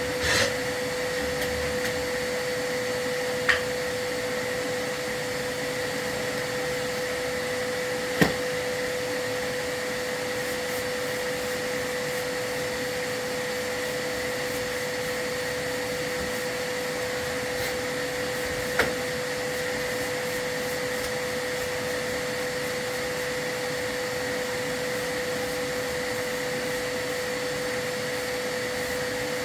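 A vacuum runs steadily with a constant whine, as used to pull soot and keep dust out of the room while a fireplace is swept. Three short knocks sound over it, about 3 s, 8 s and 19 s in.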